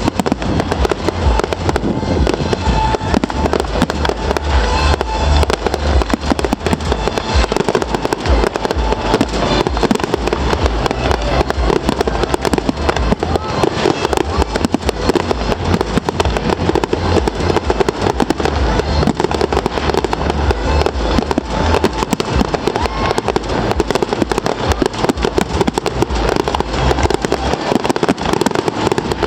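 Fireworks display: a dense, unbroken barrage of bangs and crackles from shells going off in rapid succession, with deep booms that thin out near the end.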